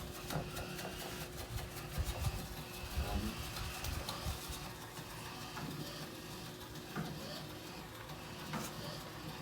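Robot vacuum running: a faint, steady motor hum with a few soft knocks.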